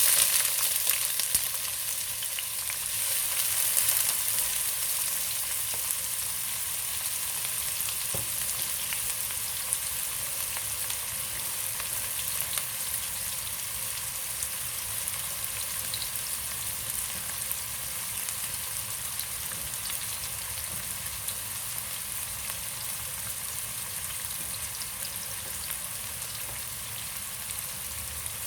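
Sliced onions sizzling in hot oil in a pan, loudest as they first go in, then settling into a steady frying hiss.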